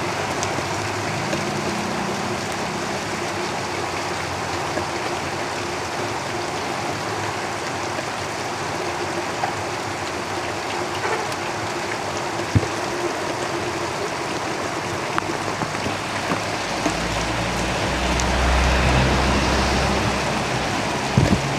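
Steady rain falling on a tin roof, with a few sharper ticks of single drops. Near the end a vehicle passing on the road adds a low rumble for a few seconds.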